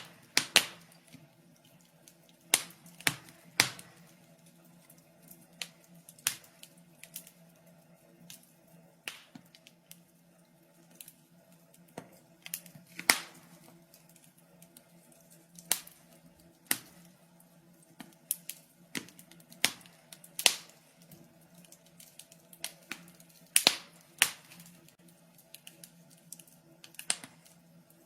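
Wood fire burning in a fireplace, crackling with irregular sharp pops and snaps, several a second at times, over a faint steady low hum.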